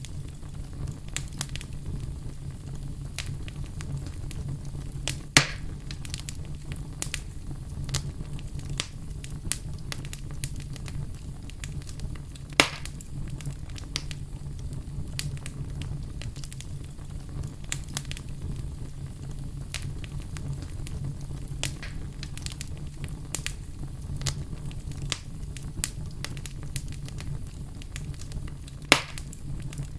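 A fire crackling: many small crackles and snaps over a steady low rumble, with three louder pops about five, twelve and a half, and twenty-nine seconds in.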